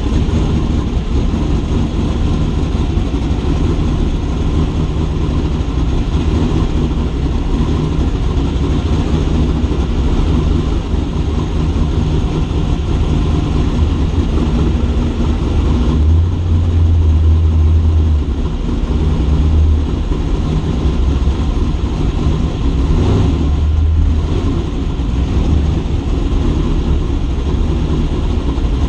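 Race car engine running with a heavy, steady low rumble, swelling louder for about two seconds a little past halfway through and again near the end.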